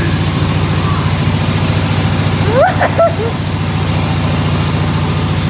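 Engine of a wood-sawing machine running steadily with a low, even pulse, not under cutting load. Halfway through, a brief voice-like call rises and falls over the engine.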